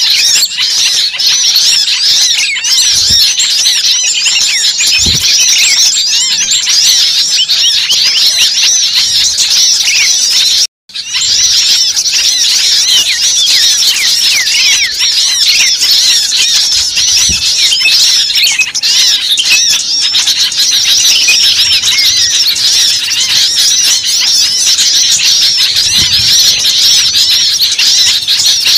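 A dense, noisy chorus of many small songbirds chirping and twittering rapidly and without pause, in the agitated 'ribut' style of bird-lure recordings. The sound cuts out completely for a split second about eleven seconds in.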